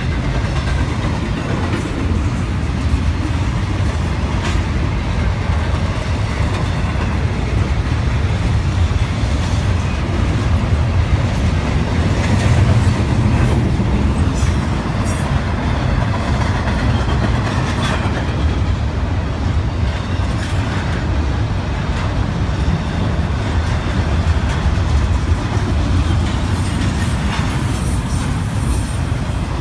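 Double-stack intermodal train's container well cars rolling past: a steady rumble of steel wheels on rail, with scattered sharp clicks.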